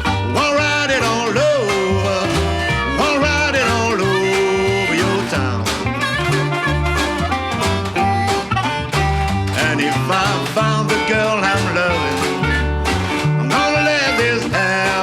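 Acoustic hokum blues band playing at a steady swing: resonator guitar and baritone resonator ukulele, double bass walking underneath, washboard scraping the beat, and harmonica or voice sliding over the top.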